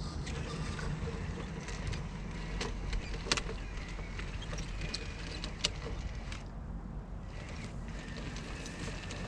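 Wind rumbling on the microphone while a radio-controlled rock crawler's small electric motor and gears run faintly, with two sharp clicks a few seconds apart.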